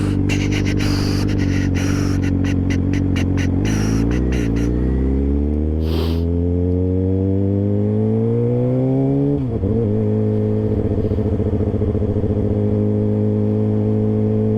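Motorcycle engine heard from the rider's seat, running steady and then accelerating: its pitch rises smoothly from about four seconds in, dips sharply as it shifts up a gear a little past halfway, and then holds a steady higher note. A quick run of sharp clicks sounds over the engine in the first few seconds.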